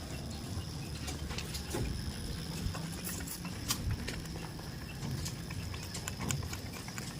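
Irregular light clicks and knocks of goats' hooves shuffling and stepping, over a low steady rumble.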